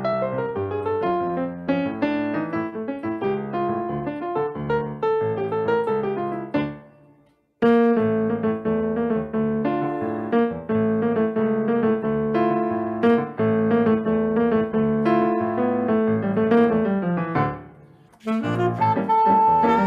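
Live piano playing chords and runs, which twice die away into a short silence, with a saxophone coming in over the piano near the end.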